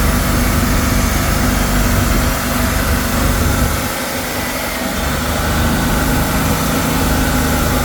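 Boat engine running steadily at a high idle that will not come down, a fault whose cause the owners don't know. The low rumble briefly thins out about four seconds in.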